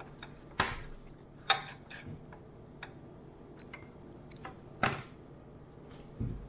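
Scattered sharp clicks and taps from small objects being handled, with loud ones about half a second in, at one and a half seconds and near five seconds, and a dull thump near the end.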